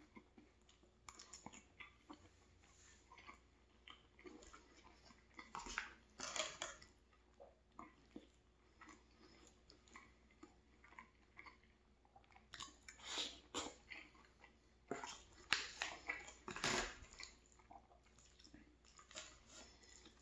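Close-miked chewing of a mouthful of pulled pork and bean stew, with scattered sharper clicks and scrapes of a metal fork in an aluminium foil tray.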